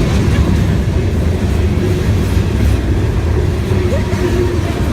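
A train close by, making a steady, loud low rumble.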